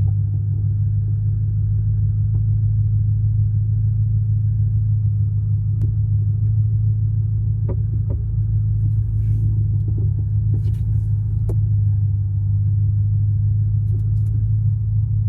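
Steady low rumble of a 2006 Audi S4 Avant with its 4.2-litre V8 running, holding an even level throughout, with a few faint clicks.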